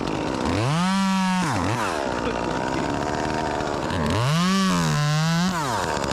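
Two-stroke chainsaw revved up to full throttle, held there for about a second, then let fall back to a lower speed. It does this twice, the second time about four seconds in.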